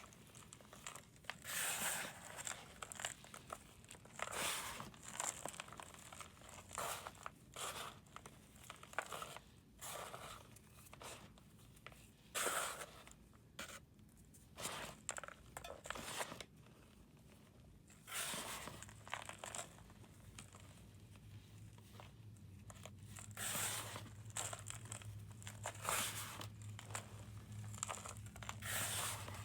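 Irregular crunching and crumbling of a brittle, powdery material being crushed, in separate sharp crackly bursts with short pauses between them.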